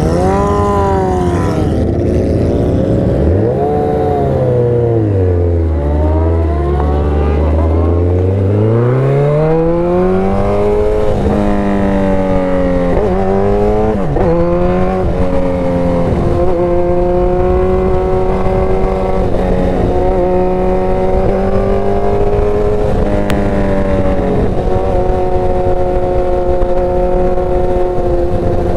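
Motorcycle engine under way. The revs fall over the first several seconds as the bike slows, then climb again with a few quick upshifts around twelve to fifteen seconds in, and after that hold steady at cruising speed.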